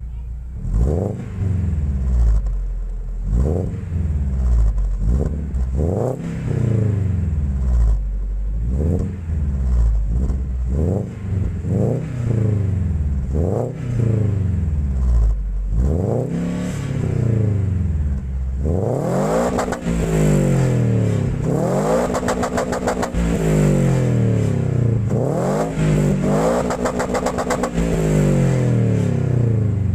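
Lada Vesta's four-cylinder engine revved repeatedly through its exhaust, short blips every second or two that rise and fall in pitch. About two-thirds of the way in, the revs climb higher and are held longer.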